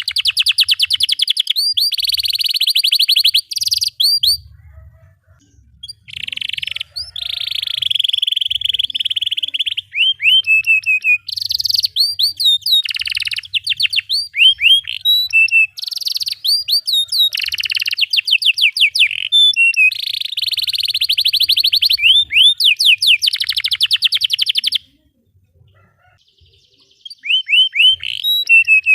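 Domestic canary singing a long song of fast rolling trills and quick repeated chirps, breaking off twice for a couple of seconds.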